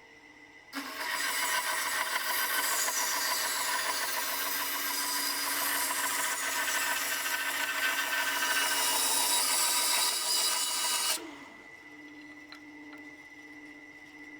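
Carbatec 10-inch bandsaw cutting through wood: a loud, steady cutting noise starts under a second in, runs for about ten seconds and stops abruptly. Around the cut, the saw runs freely with a steady hum and a high whine.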